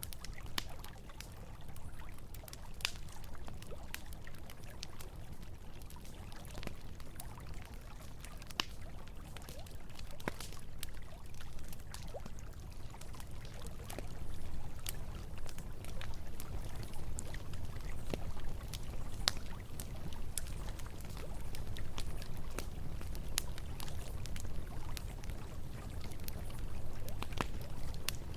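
Campfire crackling with scattered sharp pops over the steady low rush of flowing river water.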